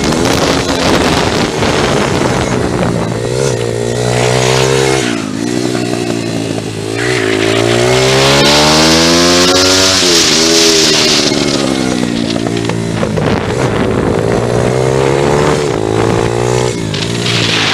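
Small single-cylinder pit bike engine run hard, its pitch repeatedly climbing as it revs out and dropping back as the throttle is shut, with one long climb in the middle. A rush of wind noise joins it briefly around the middle.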